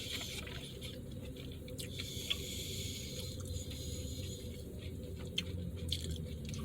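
A person chewing a mouthful of burger, with soft wet mouth noises and a few small clicks, over a steady low hum.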